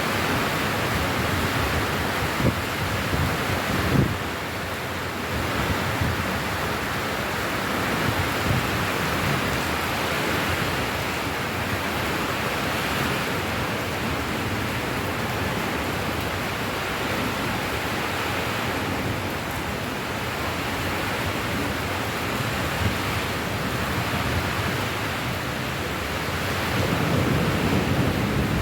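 Steady rain falling, an even hiss, with two brief low thumps a few seconds in and a swell of low rumble near the end.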